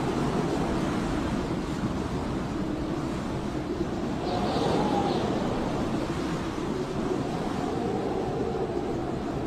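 Blizzard wind howling: a steady low rushing noise with faint whistling tones that slowly rise and fall.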